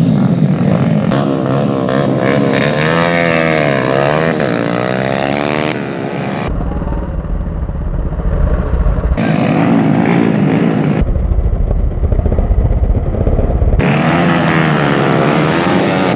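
Small-displacement racing motorcycle engines revving, their pitch rising and falling repeatedly as the bikes work through the circuit. Two stretches of deep low rumble come in at about six and eleven seconds.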